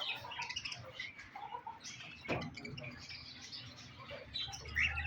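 Many small cage finches chirping and twittering at once, in short scattered calls, with a single knock about two seconds in.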